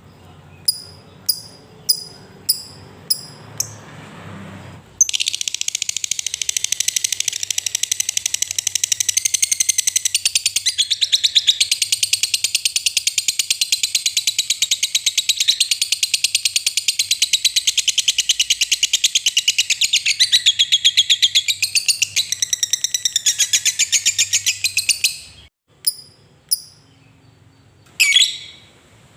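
Lovebird giving a long continuous ngekek, the rapid high rattling chatter that fanciers prize, lasting about twenty seconds and wavering in pitch. Before it come single sharp chirps, about two a second, and a few more chirps come after it.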